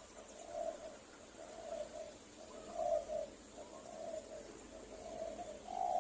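Spotted dove (tekukur) cooing: a run of low, soft coo notes, about one a second, with the last one loudest.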